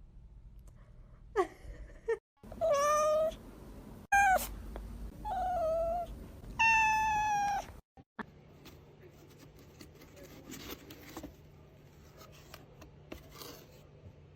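A domestic cat meowing five times in the first half, the first a short rising call and the last the longest, followed by a quieter stretch with a faint low hum.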